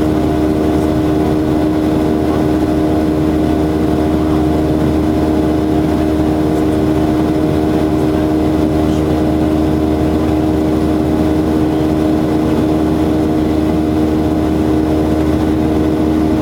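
Steady drone of a Boeing 737-800's CFM56-7B jet engines and airflow heard inside the cabin in flight, with a constant low hum over the rushing noise and no change in power.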